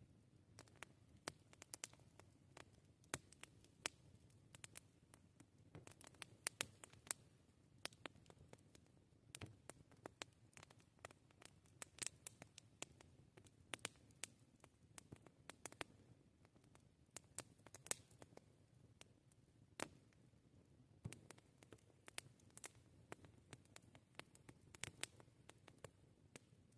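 Wood campfire crackling: irregular sharp snaps and pops, a few each second, over a faint low rumble of the burning fire.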